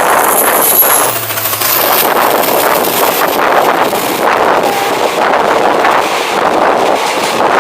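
Diesel-hauled express train passing close at speed: a loud, steady rushing clatter of wheels on the track, with some wind on the microphone.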